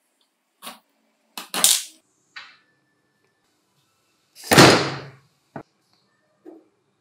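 Hard parts or tools being handled at a workbench: a few separate knocks and clicks, the loudest about four and a half seconds in and trailing off briefly.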